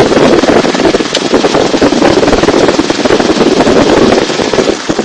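Loud, dense, unbroken crackling in the cabin of an open-door helicopter in flight: wind buffeting the microphone over the rotor and engine noise.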